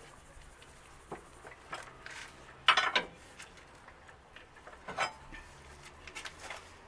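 A few light metallic clinks and knocks from something being handled under a car, the loudest a short clatter about three seconds in and another near five seconds.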